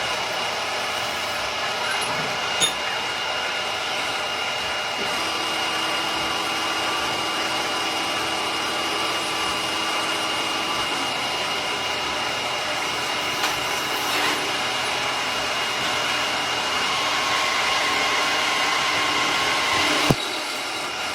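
Workshop machinery running steadily, with a constant high whine and a lower hum that comes and goes, broken by a few sharp metallic knocks, the loudest near the end.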